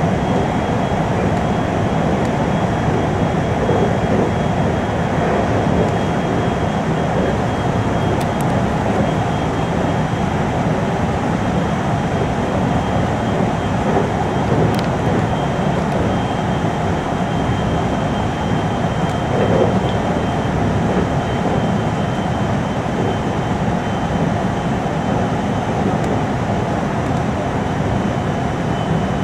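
A 521 series electric train running steadily at speed, heard from inside its motor car: a constant rumble of wheels and running gear, with a thin, steady high whine over it.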